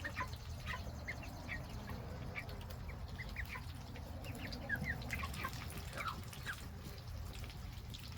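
A flock of young poultry peeping, with short, high chirps scattered a few per second, over a low steady rumble.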